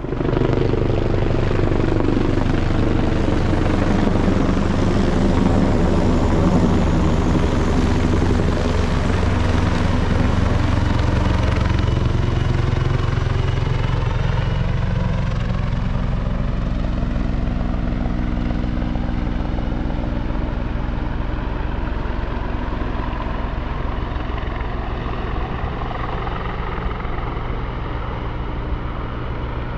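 Military helicopter flying low overhead, its rotor and engine noise loud and steady. It starts abruptly and eases off slowly over the second half.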